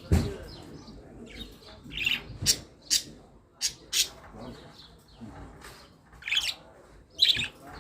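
Small birds chirping in short, irregular high-pitched calls, over a dozen in all, with a brief dull thud right at the start.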